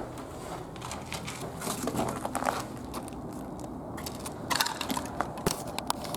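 Footsteps crunching over debris on a hard floor: irregular crunches and crackles, with a few sharper scrapes around four and a half seconds in.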